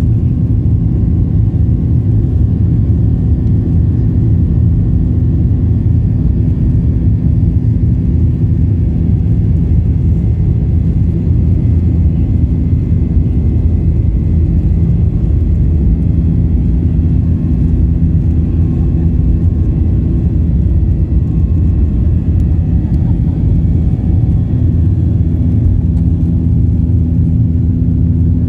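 Cabin noise of a Boeing 737-800 in flight: its CFM56 engines and the airflow make a steady low rumble with a few even hum tones underneath.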